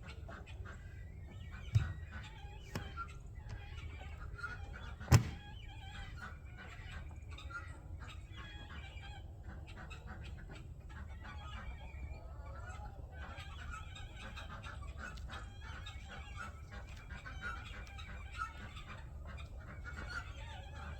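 A mixed flock of chickens, ducks and guinea fowl calling continuously, with many short overlapping calls. Two sharp knocks cut through, about two seconds in and about five seconds in; the second is the loudest.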